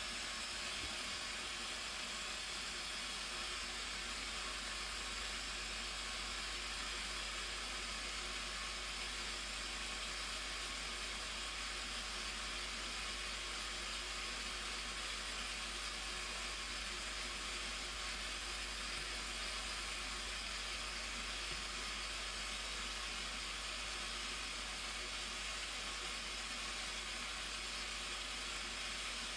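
Blue Nile Falls: the steady, unbroken rush of water pouring over the falls, a constant hiss with no breaks.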